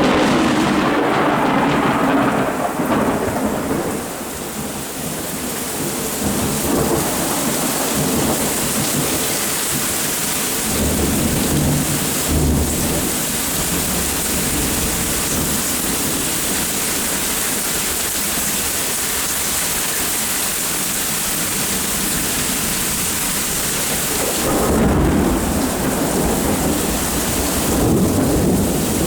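Steady rain falling, with thunder rumbling three times: a loud rumble at the start that fades over a few seconds, a shorter one about twelve seconds in, and a longer one near the end.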